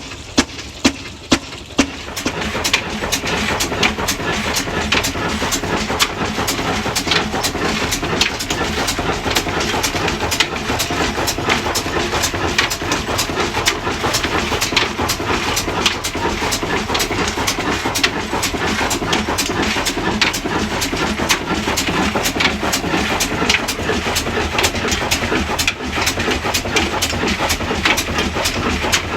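Large-flywheel diesel engine starting: slow, evenly spaced knocks, about two a second, for the first two seconds, then it picks up and runs steadily and loudly with a rapid clicking.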